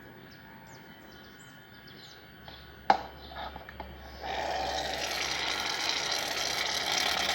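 A sharp click, then about three seconds of steady hiss from an aerosol can of shaving foam being sprayed out.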